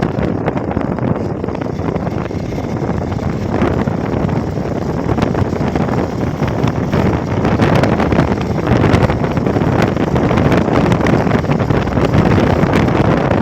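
Wind buffeting the microphone of a moving Hero XPulse motorcycle, a loud steady rush with crackling gusts, the motorcycle running beneath it.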